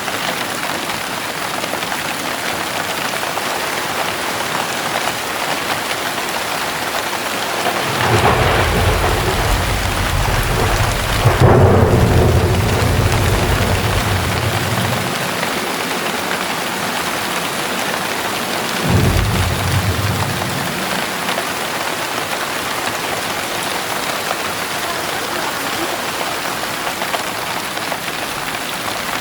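Heavy rain pouring steadily, with a long roll of thunder that swells about eight seconds in, peaks with a sharp crack after about three more seconds and fades over a few seconds, then a shorter thunderclap near the middle.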